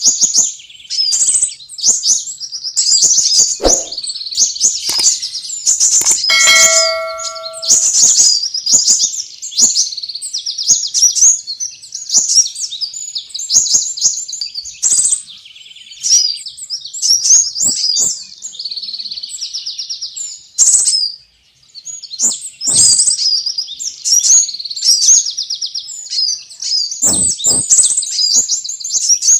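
Sunbirds giving rapid, high-pitched chirps and trills in dense, near-continuous runs, as played for luring small birds. A brief ringing tone sounds about six and a half seconds in.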